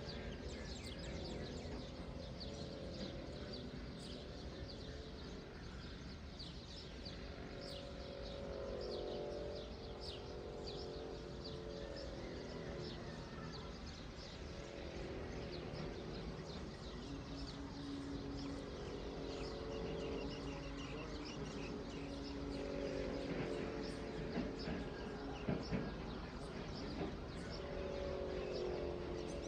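Many small birds chirping and twittering steadily over a low outdoor rumble, with lower, wavering sounds coming and going and a few sharp knocks near the end.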